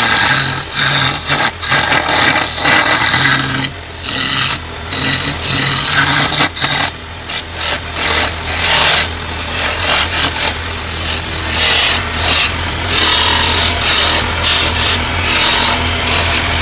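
A bamboo root being rasped and abraded by a tool in repeated, irregular scraping strokes, over a steady low hum.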